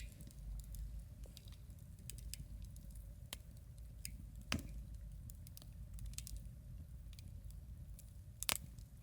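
Wood campfire crackling, with scattered snaps over a steady low rumble and two louder pops, one about four and a half seconds in and one near the end.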